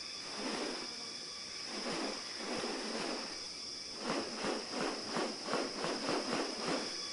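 Rainforest insects making a steady high drone, with a series of short rustling bursts over it that come quicker, about three a second, from about four seconds in.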